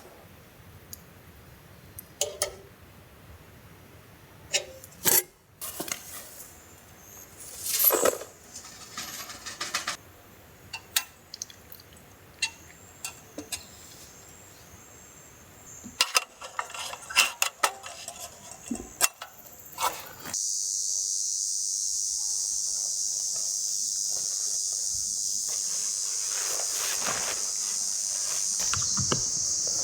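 Scattered clicks and knocks, as of camp gear being handled. About twenty seconds in, a steady high-pitched insect chorus starts abruptly and goes on.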